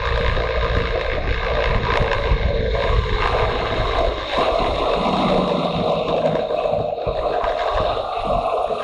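Motorcycle engine running steadily while riding, with wind rumbling over the microphone.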